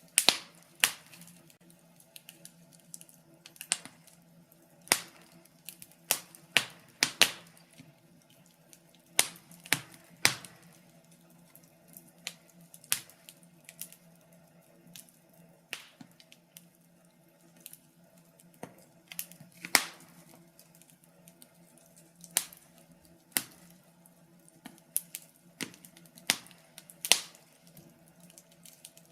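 Wood fire crackling in a fireplace: irregular sharp pops and snaps, sometimes in quick clusters, over a faint steady hiss.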